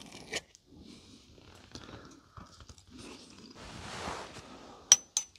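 A person chewing a bite of steak, with small clicks of cutlery on an enamel plate. There is a soft rustle of movement about four seconds in, and a sharp, briefly ringing metal clink near the end.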